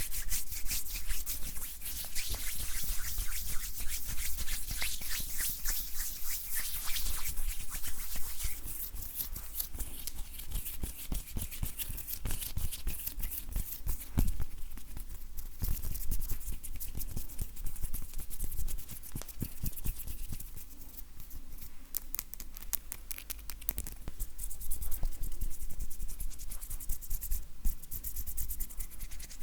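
Dry bare hands rubbing and brushing against each other, a soft rustle of skin made of many quick strokes. It is busiest in the first several seconds and again near the end.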